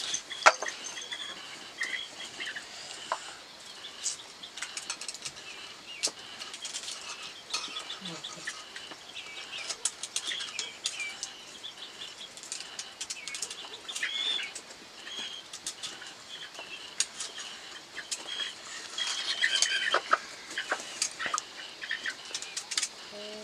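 Birds calling in short chirps, with frequent sharp clicks, taps and rustling throughout.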